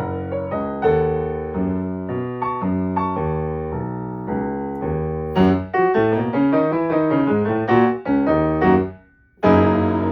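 Solo piano playing a melody over low chords. Near the end it stops for a moment, then a loud full chord is struck and left ringing.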